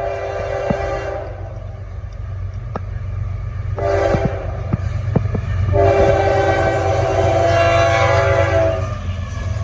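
Freight locomotive air horn sounding three blasts: one long blast near the start, a short one about four seconds in, and a long final blast of about three seconds. A steady low rumble of the train runs underneath, with scattered clicks of wheels over rail joints.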